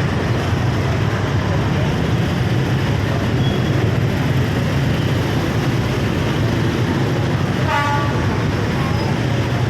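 Train running close by with a steady low rumble, and a short horn toot about eight seconds in.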